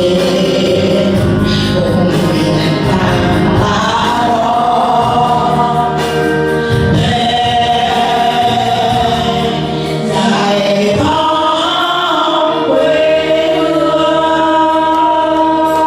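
A Vietnamese song sung by a group of voices together with music, holding long notes.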